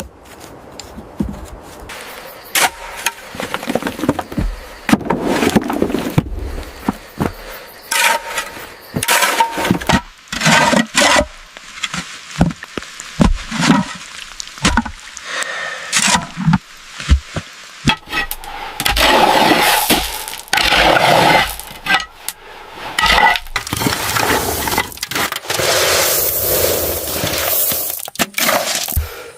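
Building-work sounds: a rapid, irregular run of knocks and cracks with scraping, and longer stretches of scraping noise near the middle and toward the end.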